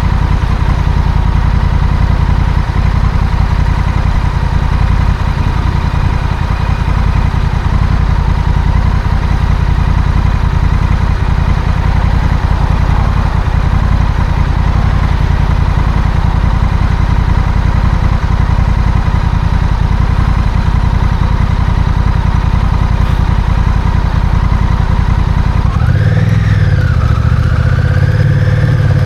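Honda CMX1100 Rebel's parallel-twin engine running on the move under a steady low rumble. About 26 seconds in, the engine note rises and falls, then climbs steadily as the bike accelerates.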